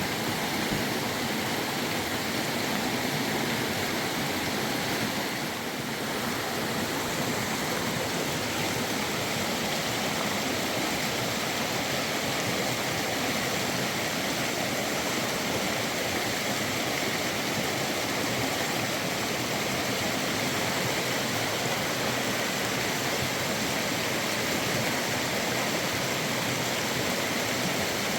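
Fast-flowing river water rushing steadily, with a brief dip about six seconds in.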